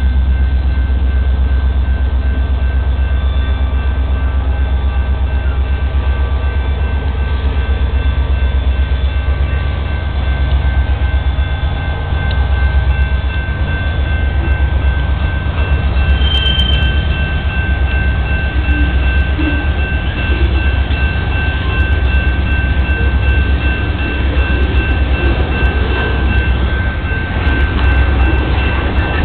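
Freight train of mixed hoppers and tank cars rolling past at close range: a steady heavy rumble from the wheels on the rails, with steady high-pitched tones running over it.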